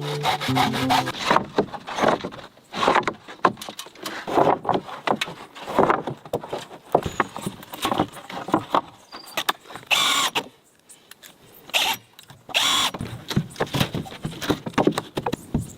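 Building work on wood: irregular knocks, clicks and scraping of tools on boards, with two longer noisy bursts past the middle.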